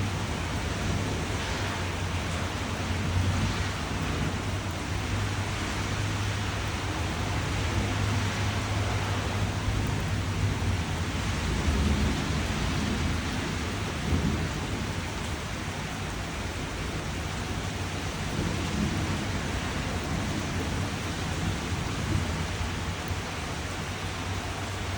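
Steady rain falling without pause, over a constant low rumble.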